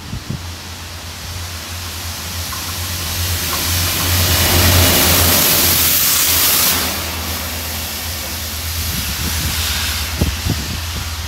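Train passing through the station at speed: its noise builds as it approaches, is loudest as it rushes past about four to seven seconds in, then falls away sharply as it recedes. A few thumps near the end.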